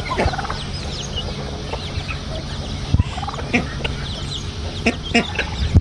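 Chickens: a hen clucking now and then, with a chick's short high peeps scattered among the clucks, over a steady low hum.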